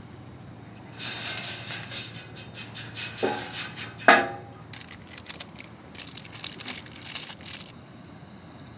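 Rustling and crinkling handling noises with two ringing clinks, the second a sharp, loud knock about four seconds in, like hard objects being set down or knocked together.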